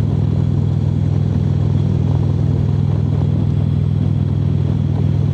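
Harley-Davidson motorcycle engine running at steady cruising speed, a constant low drone with road and wind noise.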